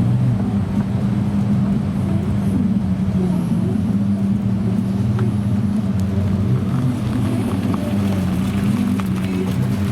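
Supercar engine running at low revs, a steady deep rumble with no revving.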